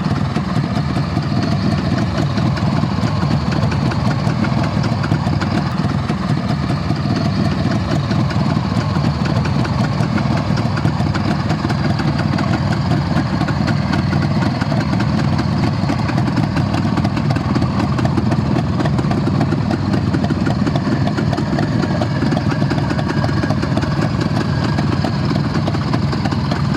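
Soviet IZH motorcycle engine running steadily at idle, with an even, unchanging beat and no revving.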